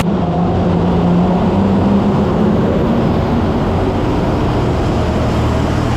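Loud engine of a pulling tractor running under load, a steady drone that deepens about halfway through.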